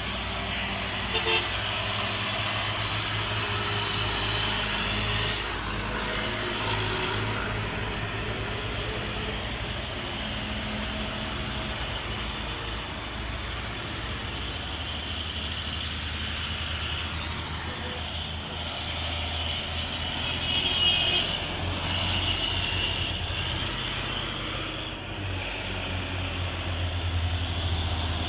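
Heavy diesel engine running through a recovery job, its low rumble rising and falling as the load changes, with a short sharp knock about a second in.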